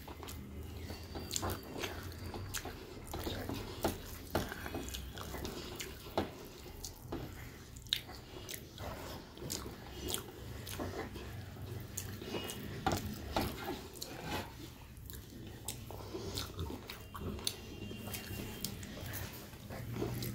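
Close-up eating sounds: wet chewing and mouth clicks as rice and fish curry are eaten by hand, with fingers working the food on a steel plate. The short, irregular clicks come every second or so throughout.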